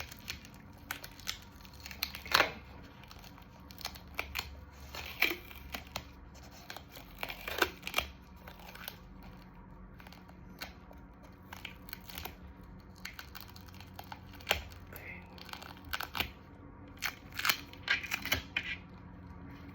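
Medical adhesive tape being peeled off the skin and the IV catheter hub, in scattered short ripping and crinkling sounds.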